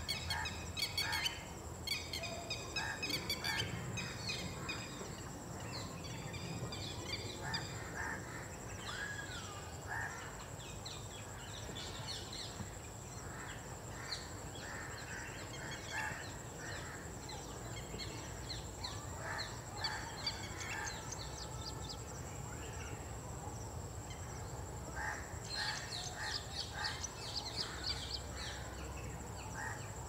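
Outdoor birdsong: several small birds chirping in quick repeated notes, busiest at the start and again near the end, over a steady thin high whine and a low background rumble.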